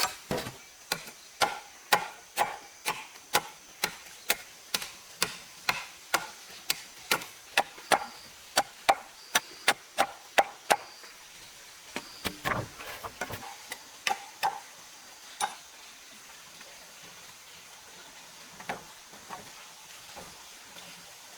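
Steady chopping or striking on wood, about two to three blows a second, then a short cluster of lighter knocks and a few scattered ones in the second half.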